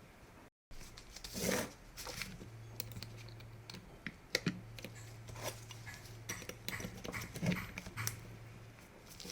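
A string of light, irregular clicks and knocks over a low steady hum that starts about two and a half seconds in.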